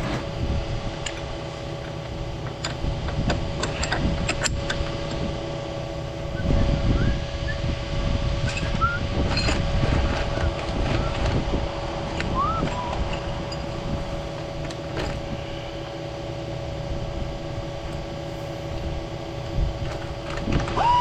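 Steady machine hum with a low rumble, overlaid by scattered metallic clicks and knocks, and a few short squeaks.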